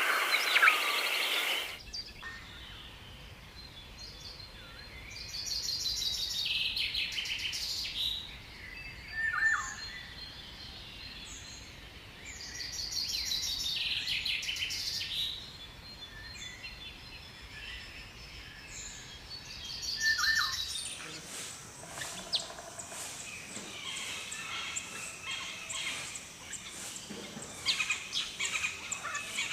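Songbirds singing: bouts of rapid high trills alternate with short calls that drop in pitch, then a busier chorus of many overlapping chirps takes over about two-thirds of the way in. The background changes abruptly near the start and again at that point.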